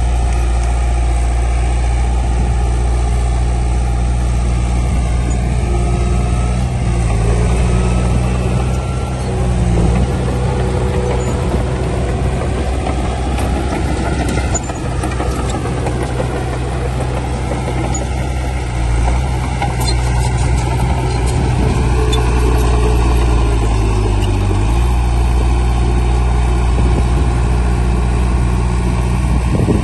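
Heavy diesel engine of construction machinery running steadily under work, its pitch dipping briefly about three-quarters of the way through.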